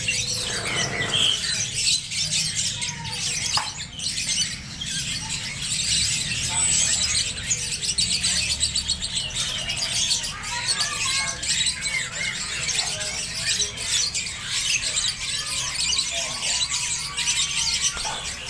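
Birds chirping, with many fine high calls overlapping and short gliding call notes here and there, over a low steady hum.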